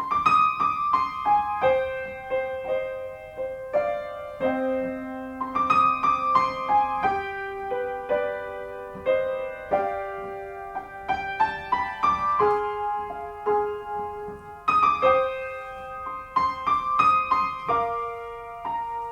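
Solo piano intro: a melody of struck notes over held chords, with no singing.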